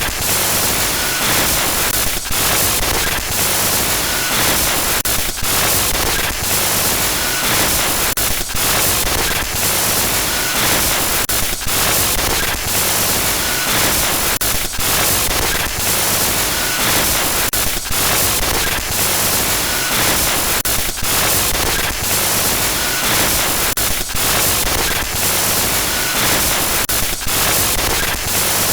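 Loud, steady static noise, like a detuned radio or TV, with frequent brief stutters and dropouts giving it a glitchy, crackling texture, and short faint beeps recurring every few seconds.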